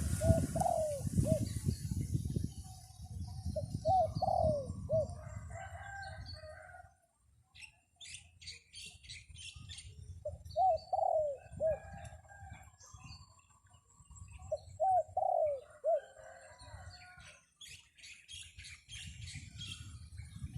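A dove cooing in short repeated phrases, four in all, roughly every four to five seconds, with wind rumbling on the microphone and small birds chirping in between.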